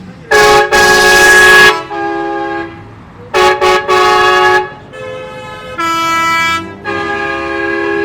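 Vehicle horns honking in a series of blasts, several short and several held for about a second. Each blast sounds as a chord of several tones, and the pitch changes from blast to blast, as from more than one horn.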